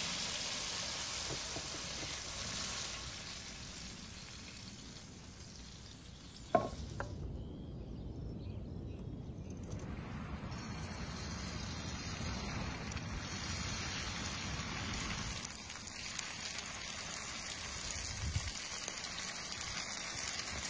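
Hot liquid pouring from a frying pan and hissing at first, a single sharp knock about six and a half seconds in, then steady sizzling and crackling of meat patties frying in oil.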